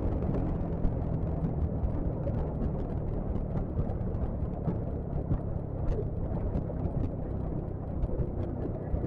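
Steady low rumble of wind and engine noise on a Yamaha XMAX scooter being ridden along the road.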